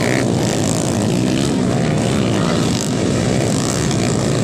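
Underbone motorcycle engines racing on a motocross track, revving with the pitch rising and falling.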